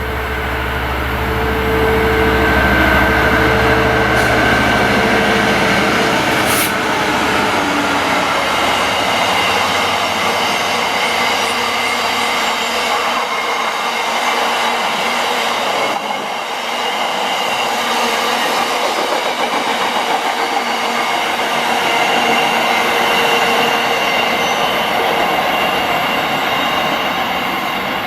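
A train passing on the line, loud throughout: a deep hum at first that fades away over the first several seconds, then a long steady rolling of wheels on rail. There is one sharp click about six and a half seconds in.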